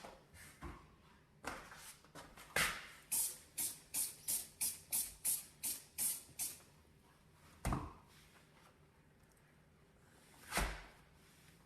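Trigger spray bottle sprayed about a dozen times in quick succession, short even hisses at roughly three a second, on a dirty stovetop. Single cleaning strokes and handling knocks come before and after.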